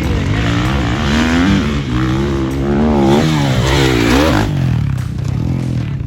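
Motocross bike engine revving, its pitch rising and falling several times as the throttle is opened and closed, then easing off about four and a half seconds in.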